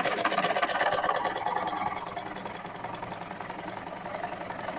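Sewing machine running and stitching, a fast even run of needle strokes clicking, loudest in the first couple of seconds. It is a test run after clearing old dirt from the thread path, which had been making the lower stitch loose.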